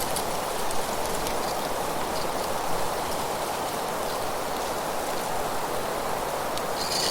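Steady outdoor nature ambience: an even rushing hiss with a few faint, short high chirps here and there.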